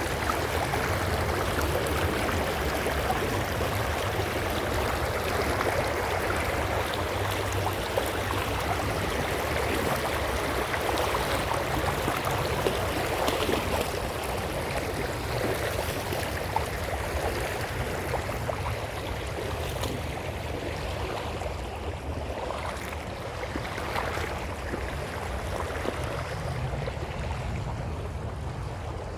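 Creek water running and babbling over stones in a steady rush, growing a little fainter in the last third, with a low rumble underneath.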